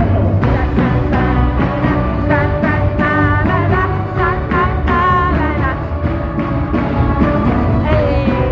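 Worship music: a band with a steady beat and bass, with voices singing a wavering melody line through a gospel praise song.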